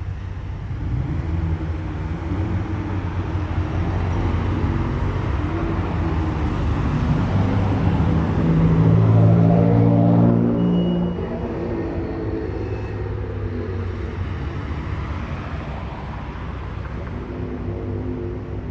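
Car engine and exhaust as a car rolls past at low speed. The note climbs and builds to its loudest about nine to ten seconds in, then drops off quickly, leaving a steadier, quieter engine running.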